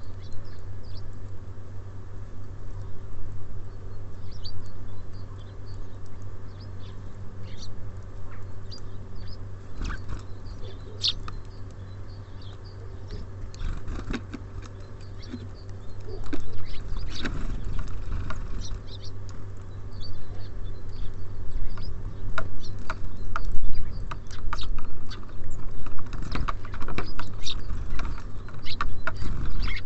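Small songbirds at a feeder chirping in short high notes, with many irregular clicks and taps as they land and peck, busier in the second half. A steady low hum runs underneath.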